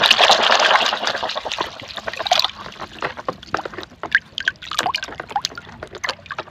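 Water splashing and pouring as muddy plastic toy trucks are rinsed clean by hand, loudest for the first two seconds, then lighter splashes and drips.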